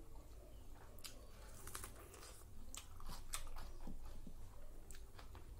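Close-miked chewing and mouth noises of someone eating curry and rice by hand: irregular wet clicks and smacks as the food is chewed.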